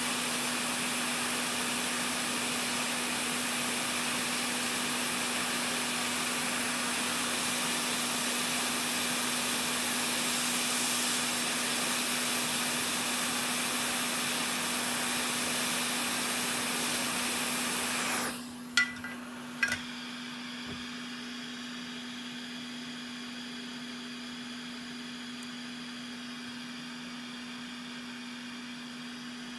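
Hot air rework station blowing steadily with a broad, even hiss, which cuts off suddenly about eighteen seconds in. Two sharp clicks follow about a second apart, and a steady low hum carries on underneath.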